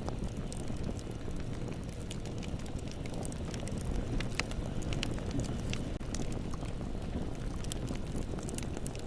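Bonfire burning: a steady low rumble of flames with scattered sharp crackles and pops of burning wood.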